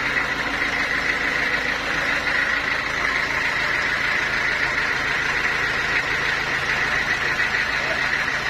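Sawmill machinery running steadily, a constant hum under a steady high whine.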